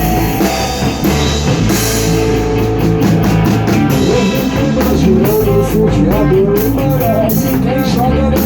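Rock band playing in rehearsal: electric guitar and bass over a drum kit with frequent cymbal hits, a steady instrumental passage.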